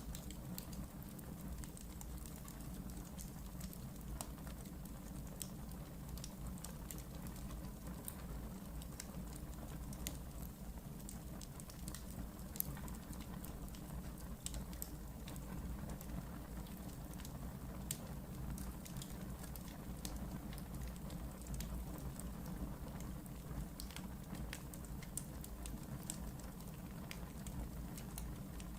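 Wood fire burning in a fireplace: a steady low rumble of the flames with scattered sharp crackles and pops, one louder pop near the middle.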